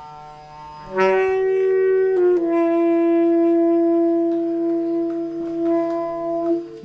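Wind and brass instruments playing together in long held notes over a low drone; the notes swell in about a second in, one shifts pitch slightly a second later, and they hold until near the end.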